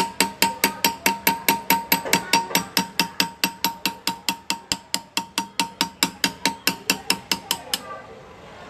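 Small engraving hammer tapping a hand graver into metal: a rapid, very even run of sharp metallic taps, about five a second, each with a faint ring. The tapping stops a little before the end.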